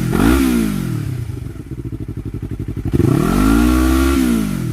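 Yamaha R3's parallel-twin engine through an Akrapovic slip-on exhaust, blipped once and falling back to idle, then revved again about three seconds in and held for about a second before dropping. The exhaust note has a slightly heavier bass but is not much louder than stock.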